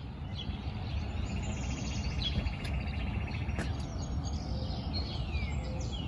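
Several birds singing: a rapid, even trill on one pitch lasting about three seconds, with scattered chirps and a few quick falling notes near the end, over a steady low background rumble.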